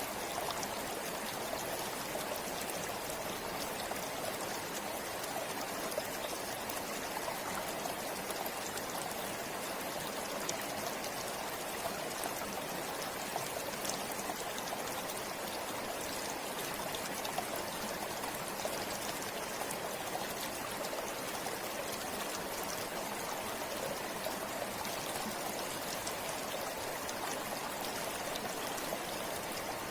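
Forest river or stream flowing steadily, an even rushing of water with small splashes and trickles.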